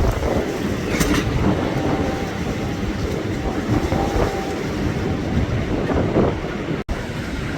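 Storm-force wind blowing in strong gusts, with heavy low rumble from the wind buffeting the microphone. A faint steady whistle comes in for a couple of seconds near the middle, and the sound drops out for an instant near the end.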